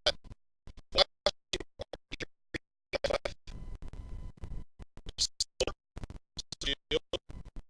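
Short scratches and clicks of trading cards and their wrappers being handled, broken up by the audio repeatedly cutting out to dead silence: a faulty, dropping-out audio feed.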